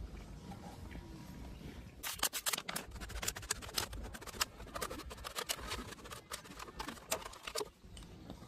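Hands working PVC pipe and fittings: a dense, irregular run of sharp plastic clicks and scrapes that starts about two seconds in and stops shortly before the end.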